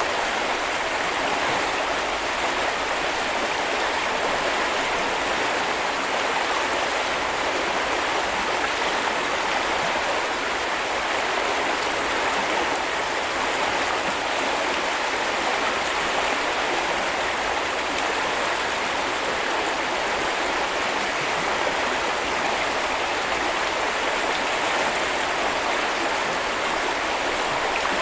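Small river or brook running over stones: a steady, unbroken rush of flowing water.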